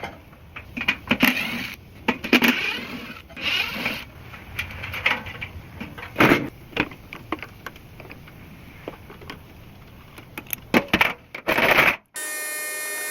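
Hands and tools working on HVAC equipment: irregular clicks, clatter and short scraping or rustling noises. About twelve seconds in, the sound cuts abruptly to a steady whirring motor with a hum.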